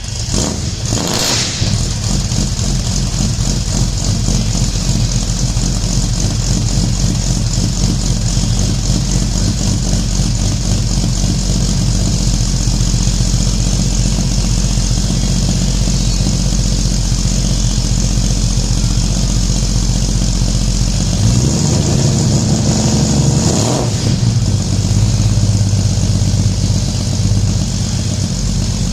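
A 1966 Ford Mustang's 200 cubic-inch inline-six running through a split header and 1.75-inch dual exhaust with 18-inch glass-pack mufflers: it idles steadily, with a short burst about a second in. It is revved once about 21 seconds in, the pitch rising and falling over a few seconds, then settles back to idle.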